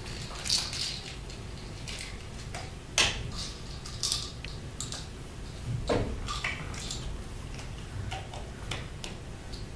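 A few scattered light knocks and clicks over a low steady background hum, the sharpest knock about three seconds in.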